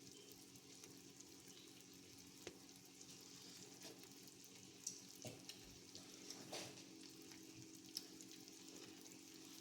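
Faint sizzling of a vegan buffalo chicken quesadilla frying in butter in a pan, with a few scattered small pops.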